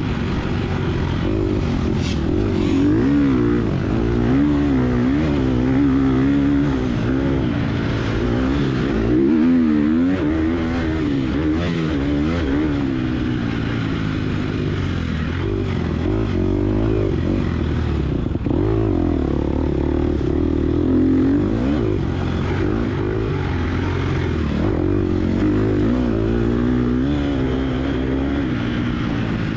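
Gas Gas EX250F dirt bike's 250 cc four-stroke single-cylinder engine, revving up and down over and over under hard riding.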